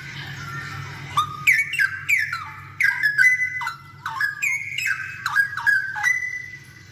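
Straw-headed bulbul (cucak rowo) singing a loud phrase of rapid, liquid whistled notes, many sweeping sharply down in pitch. The song starts about a second in and stops shortly before the end, over a steady low hum.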